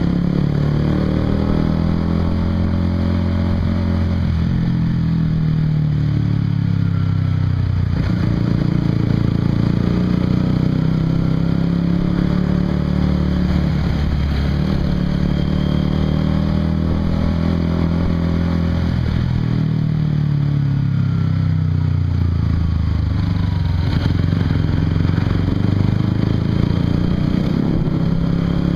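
Honda CBR150R's single-cylinder four-stroke engine running through a Yoshimura aftermarket exhaust while riding. The engine pitch repeatedly climbs and drops as it accelerates and eases off.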